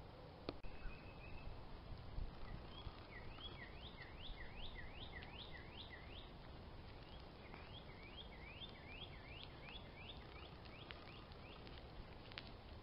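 A songbird singing two runs of quick, repeated slurred whistled notes, about three notes a second, each run lasting about three seconds. The song is faint.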